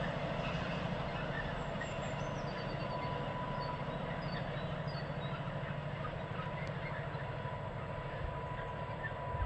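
Container freight train's wagons rumbling on the rails as the train moves away, a steady rumble that slowly fades. A bird chirps in short runs over it.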